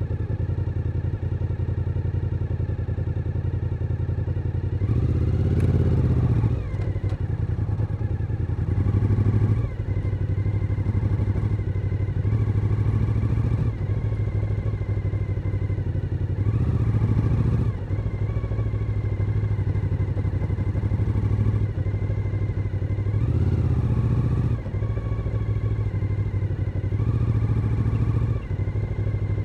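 Suzuki SV1000N's 996 cc V-twin engine under way, its steady note swelling louder about five times for a second or two as the throttle is opened, with short dips in level between.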